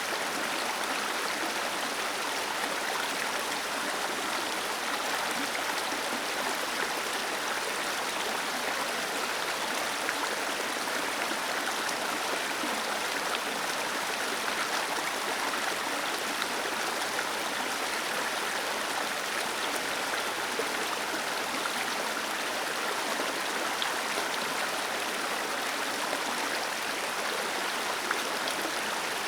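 Waterfall cascading steadily: an even rush of falling water, with little deep rumble.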